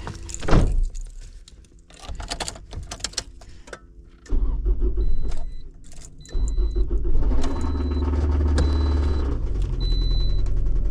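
A Toyota Highlander engine being started. After a thump and some key clicks, the engine fires about four seconds in, falters, catches again around six seconds and keeps running with a rod knock, the sign of an engine run low on oil. A dashboard warning chime beeps several times over the running engine.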